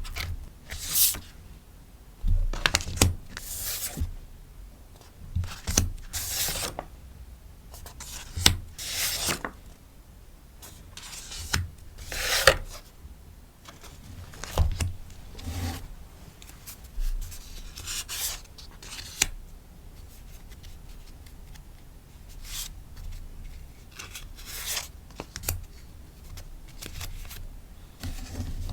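Rustling and crinkling of sticker packaging being handled and wrapped, in irregular bursts every second or so, with occasional light taps.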